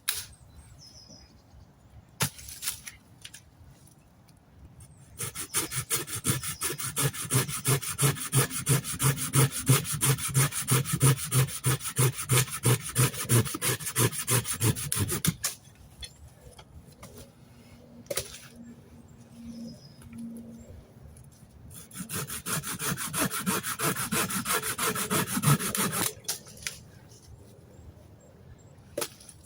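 Hand saw cutting through wood in quick, even back-and-forth strokes, about three or four a second. It runs in two bouts: a long one of about ten seconds, then, after a pause with a few knocks, a shorter one of about four seconds.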